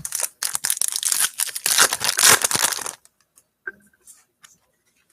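A foil trading-card pack being torn open and crinkled for about three seconds, followed by a couple of light clicks as the cards are handled.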